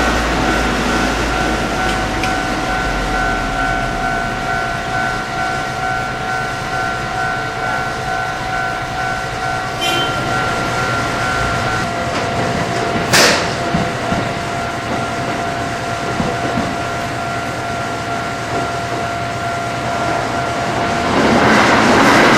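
Japanese level-crossing warning bell ringing over and over while a Kintetsu electric train rumbles past, wheels clattering on the rails. There is a single sharp crack about 13 seconds in, and the train noise swells near the end.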